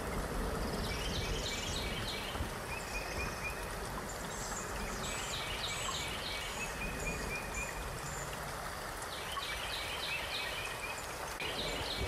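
Steady rushing water noise, with a small bird chirping short, quick runs of notes several times over it.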